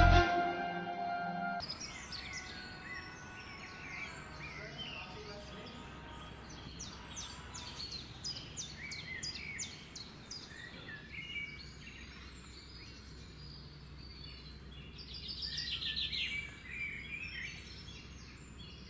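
Small birds chirping and twittering over a steady low hum, after music cuts off about a second and a half in; the chirping grows busier near the end.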